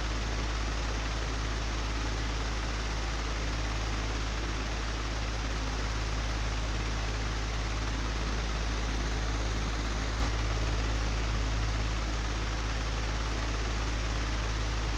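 Old, broken electric fan running steadily: a constant whooshing noise over a low drone, with a single brief click about ten seconds in.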